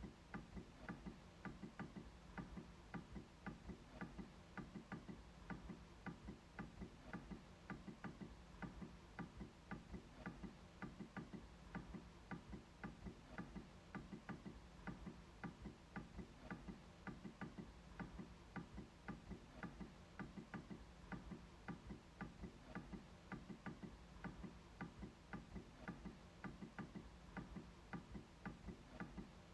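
MacBook trackpad being clicked over and over, faint, fairly even clicks at about three to four a second.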